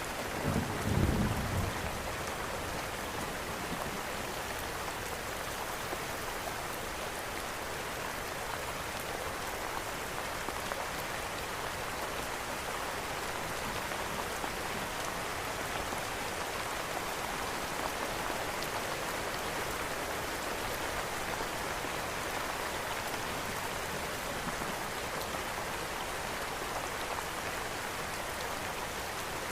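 Steady rain falling and pattering on surfaces, with a brief low rumble about a second in.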